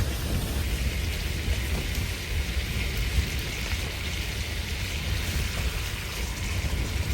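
Blizzard wind blowing steadily: a constant low rumble of wind on the microphone under an even hiss.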